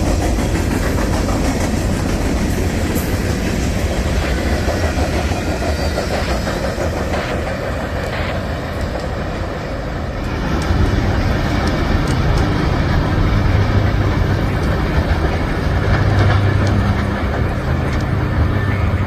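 A train rolling past at close range, a loud steady rumble of wheels on rail. About halfway through, a low steady hum joins in.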